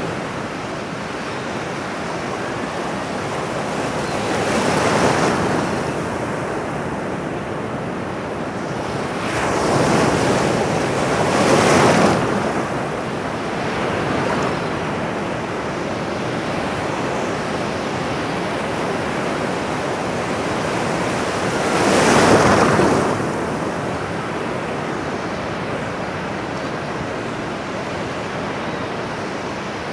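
Ocean surf: a steady wash of water, with four louder swells as waves break.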